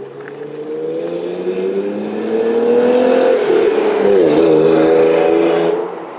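1998 Ford Explorer's 4.0 L SOHC V6 exhaust under acceleration. The engine note climbs in pitch for about three seconds, dips briefly about four seconds in, then holds steady before falling away near the end.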